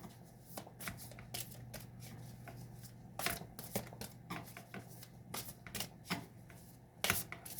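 A tarot deck being shuffled by hand: irregular soft slaps and flicks of cards.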